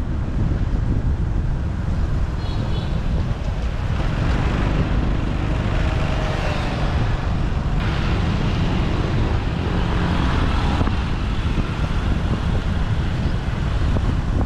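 Wind rushing over the microphone of a moving motorbike, with road and traffic noise underneath. A few short high beeps sound a little over two seconds in.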